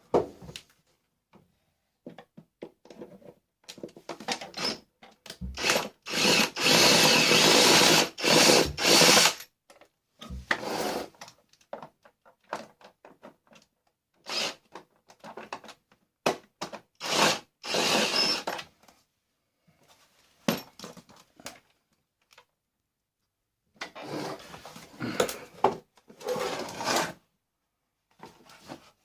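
A power drill or driver runs in short bursts, the longest about six seconds in, between clicks and clatters of plastic parts as a Hoover vacuum cleaner is taken apart for scrap.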